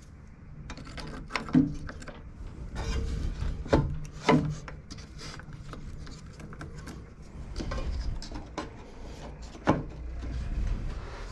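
Irregular knocks, clicks and scraping of tools and metal parts being handled on a lawn mower, with a few sharper hits.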